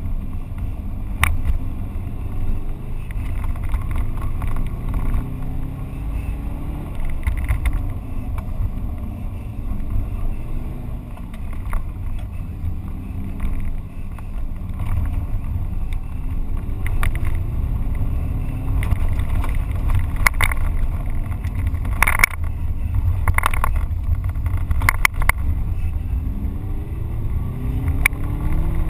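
Subaru Impreza GT's flat-four engine under hard acceleration, the revs climbing again and again as it pulls through the gears, over a heavy low rumble of road and tyre noise inside the cabin. Several sharp knocks come through in the second half.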